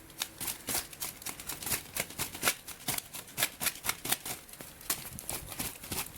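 Small stick fire catching after a dose of kerosene, crackling with irregular sharp pops several times a second.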